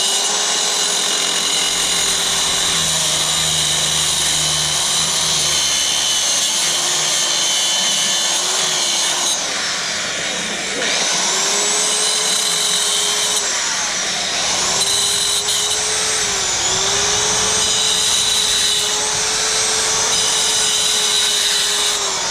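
A power tool's motor running with a steady whine that dips in pitch several times as it is loaded, stopping briefly twice and starting up again.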